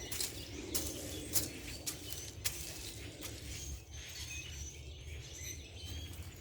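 Small birds chirping in short high calls, with a series of short knocks and scrapes from a garden tool working loose soil in a raised bed.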